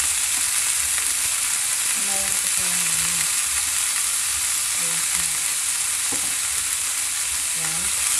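Small crabs frying in hot oil with garlic and onion in a frying pan, giving a steady sizzling hiss. Near the end a spatula starts stirring them.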